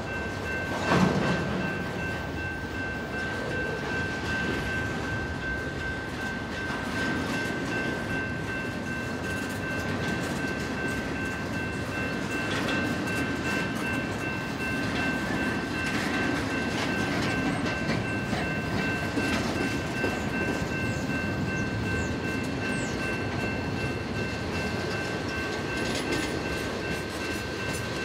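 Freight train of double-stack well cars and then tank cars rolling past at close range, its wheels rumbling and clicking over the rail joints, with a loud clunk about a second in. A steady high ringing tone sits over the train noise.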